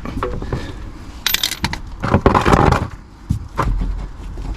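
Handling noises from working under the car at the undertray's sump-plug access flap: a few scrapes and rustles of plastic and tools, then a couple of sharp knocks or clicks.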